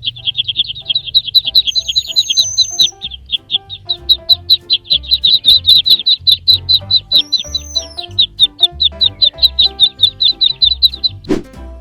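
Rapid, steady high-pitched bird chirping, about five chirps a second, with a couple of brief whistling glides, over light background music. The chirping stops about a second before the end, where a quick swooping sound effect comes in.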